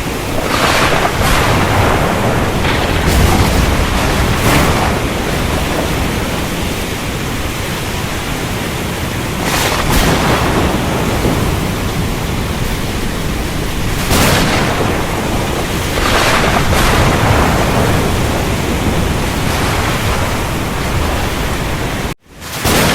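Thunderstorm with heavy rain: a steady hiss of rain, broken by sharp thunder cracks about half a dozen times and low rolling rumbles. The sound drops out for a split second near the end, then resumes.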